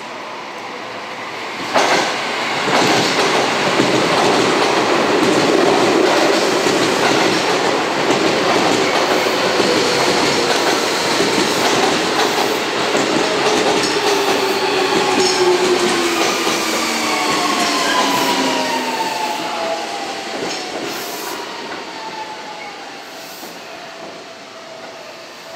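Seibu 6000-series electric train running into a station: the wheels clatter over rail joints and points, with a sharp clack about two seconds in. A whine slides down in pitch as it brakes, and the sound fades toward the end as it slows to a stop.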